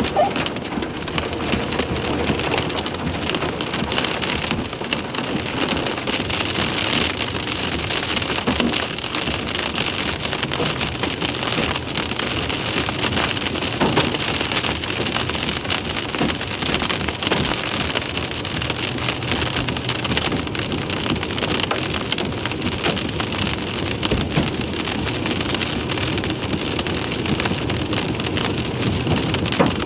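Large hailstones and heavy rain hitting a car from the outside: a steady loud rain noise with many sharp knocks of hail strikes throughout.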